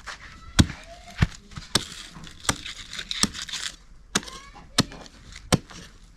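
A series of sharp, loud strikes at a fairly even pace, about one every two-thirds of a second, eight or so in all.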